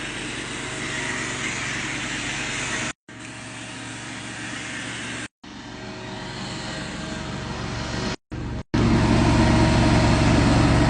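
Carpet cleaning machine running steadily, in several short takes broken by brief cuts to silence; the last take, from about nine seconds in, is louder and deeper.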